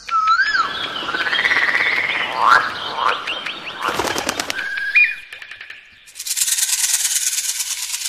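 A string of bird calls and songs: whistled notes sliding up and down, then a held whistle, and a fast, buzzy rattle in the last two seconds.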